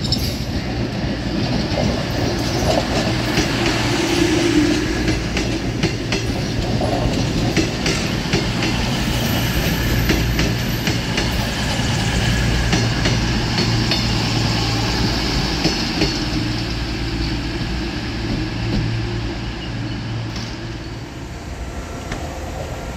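A train running past, its wheels clicking over rail joints over a steady low drone; the sound eases off near the end.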